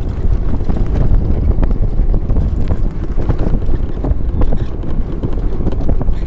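Wind buffeting the microphone with a heavy low rumble, broken by many irregular knocks and rattles.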